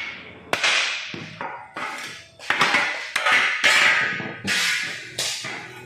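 Hammer blows on car-body sheet metal, about nine irregular strikes, each sharp and ringing briefly, from straightening the front-end panels of a Daihatsu Sigra.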